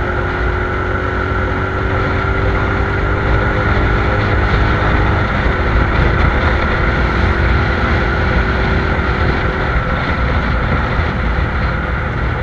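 Honda Blade 125 FI's single-cylinder engine running steadily through an aftermarket Honda CBR exhaust muffler, a loud, even exhaust note with no revving.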